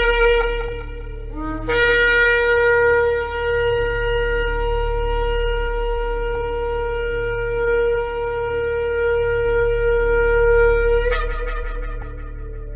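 Shofar blown: a blast ends about a second in, then a brief rising note leads into one long steady held blast of about nine seconds that breaks upward at its end and fades away, over a steady low hum.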